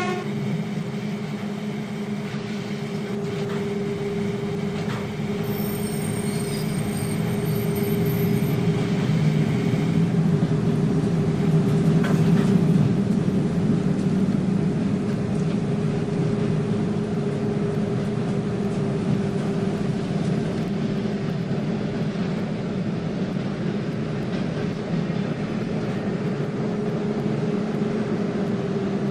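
A train passing through the station: continuous rumble of wheels on the rails with a steady hum, building to its loudest about 12 seconds in and then easing slightly.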